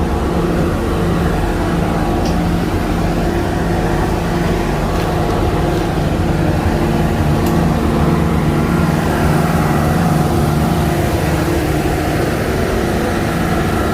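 Steady mechanical drone of a running vehicle or engine, with several steady humming tones and a few faint clicks over it.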